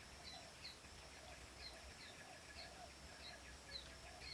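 Faint wild birds chirping, short falling calls repeating about once or twice a second, over a faint steady high insect-like drone.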